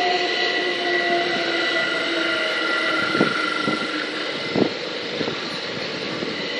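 Southern Class 377 electric multiple unit running into the platform to stop, its motor whine falling slowly in pitch as it slows, with a couple of brief knocks from the wheels over the track.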